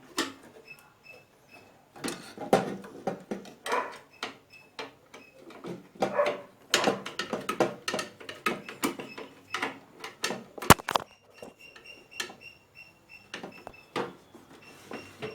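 Irregular knocks, clicks and scrapes of parts and tools being handled on an opened microwave oven, with one sharp click about ten and a half seconds in.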